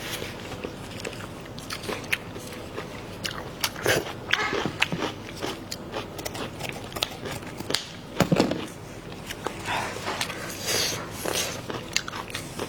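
Close-miked eating: a person chewing and biting food, with many small wet mouth clicks and a few louder bites.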